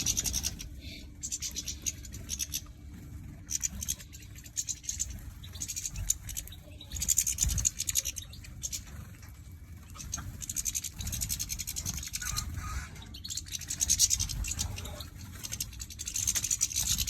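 Small caged songbirds scratching, rustling and pecking at seed and feeder. It comes as quick runs of fine scratchy ticks every couple of seconds.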